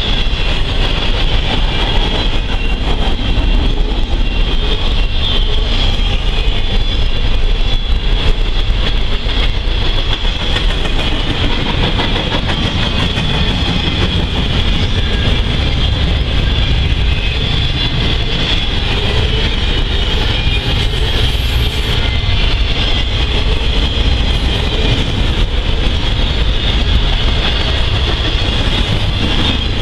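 Norfolk Southern intermodal freight train rolling past: a steady, loud rumble of steel wheels on rail with a high ringing tone above it.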